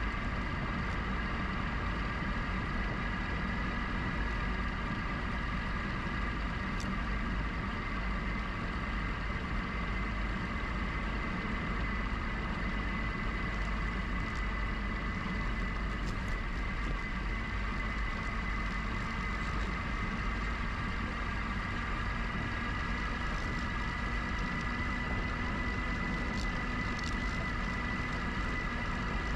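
GoCycle GX electric bike riding at a steady pace: a steady motor whine with several tones that drift slightly with speed, over a constant low rumble of wind and tyres, with a few faint ticks.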